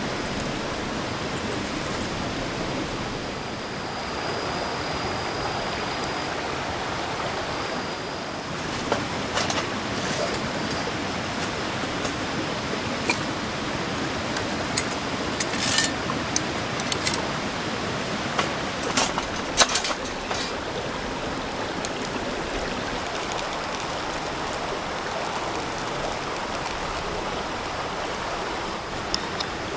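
Wood fire burning in a fire pit: a steady rushing hiss with sharp pops and crackles, which come thickest in the middle stretch.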